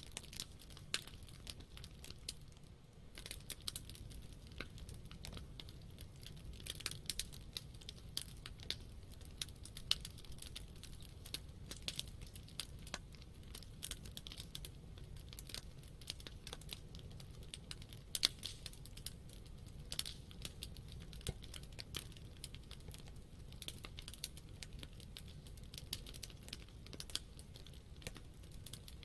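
Campfire (takibi) of burning wood crackling steadily, with many small irregular snaps and pops and now and then a louder pop, over a low steady rumble.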